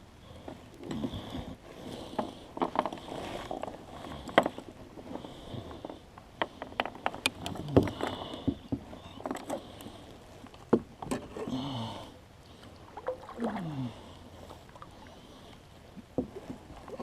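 Handling noise on a small fishing boat: scattered clicks, knocks and rattles of gear and hands against the hull, with a few short falling creaks.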